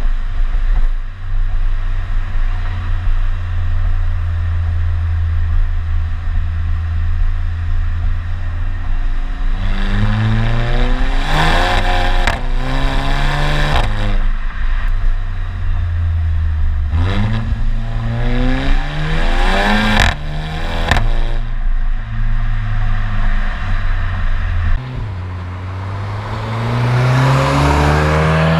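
VW Golf 7 GTI's turbocharged 2.0-litre four-cylinder running through its exhaust. It holds a steady note for about nine seconds, then goes through several hard accelerations, each rising in pitch and dropping back at a gear change. Two sharp pops come about two-thirds of the way through.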